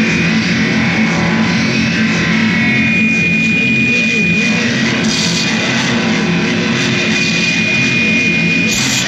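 Loud, dense distorted guitar music with a thick noisy wall of sound. A held high tone sounds over it, about three seconds in and again in the second half.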